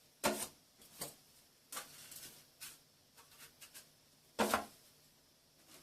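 Plasterer's knife working base-coat compound on a plaster join: a scatter of short, light scrapes and small taps, with a stronger scrape about four and a half seconds in.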